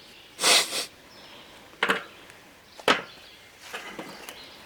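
Knocks from hand work while the new engine is bolted onto the concrete mixer's mount: a short scrape about half a second in, then two sharp knocks about a second apart and a few softer taps near the end.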